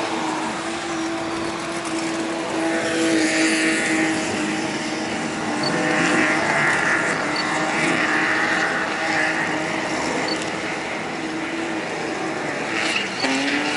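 Drift car engine held at high, steady revs through a slide, with tyre squeal swelling three times; the engine note drops briefly near the end and picks up again.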